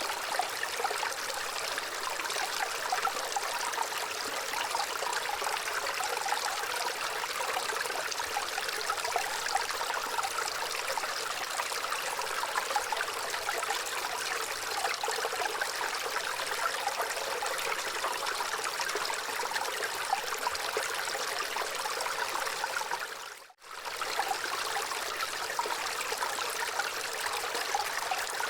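Gentle running water flowing steadily, a continuous hiss-like rush. About 23 seconds in it dips briefly almost to silence, then comes straight back.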